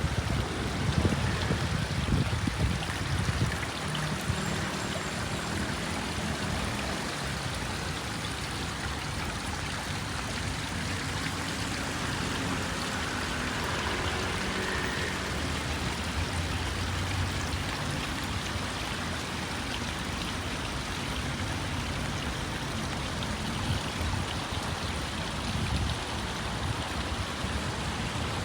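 Steady rain falling, an even hiss, with a low rumble in the first few seconds.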